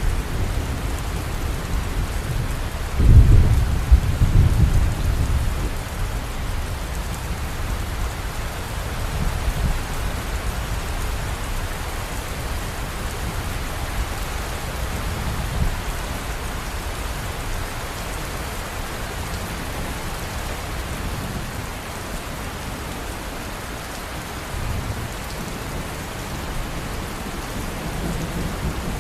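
Steady rain with thunder rumbling in the low end. A loud peal comes about three seconds in, and fainter rumbles follow later.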